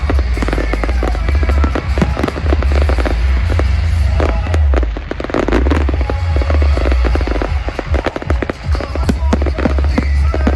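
Fireworks display: a dense, continuous run of crackles and sharp bangs over deep booming.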